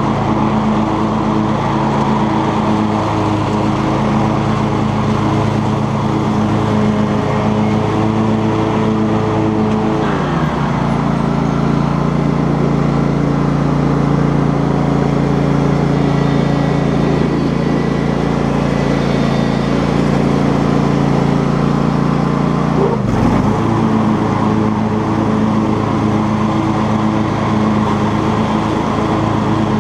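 Cub Cadet XT2 lawn tractor engine running steadily with its 42-inch mowing deck engaged, cutting tall grass. The engine note drops about a third of the way in and rises again about two-thirds of the way through, with a short sharp sound at that moment.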